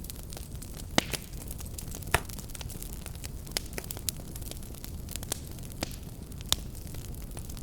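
Fireplace fire burning with a steady low rumble and irregular crackles and sharp pops, three of them louder than the rest.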